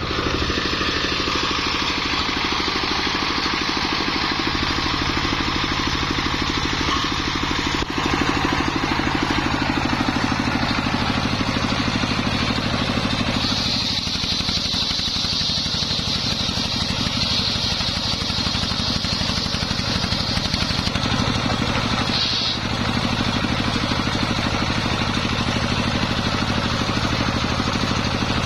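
Homemade circular saw rig running steadily with a constant motor drone. From about 13 seconds in to about 21 seconds, a high whine rides over it as the blade cuts through waru wood, then comes again briefly a little later.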